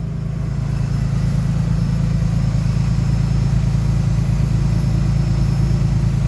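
Pickup truck engine idling steadily, with a hiss of outside noise that comes up in the first second and then holds.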